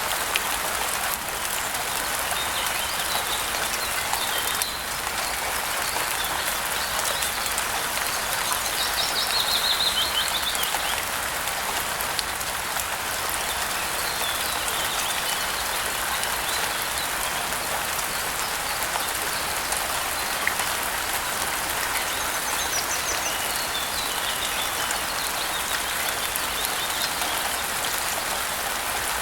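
Steady rain falling, with birds chirping in short bursts a few times over it.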